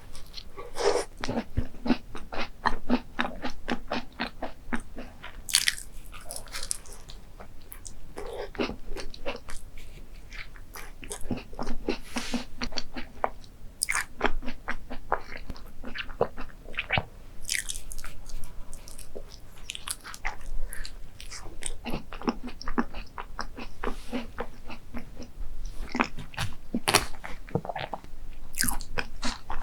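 A person eating crunchy desserts close to the microphone: repeated crisp crunching bites and chewing throughout.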